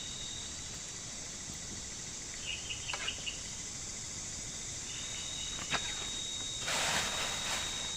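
Steady chorus of forest insects, crickets among them, with a constant high-pitched tone. A few light clicks come midway, and a burst of rustling noise near the end.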